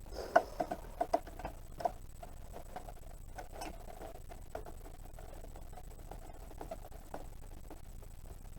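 Small plastic parts of a portable fridge clicking and tapping as they are prised and worked by hand, with a quick run of about six sharp clicks in the first two seconds, then fainter scattered ticks and scraping.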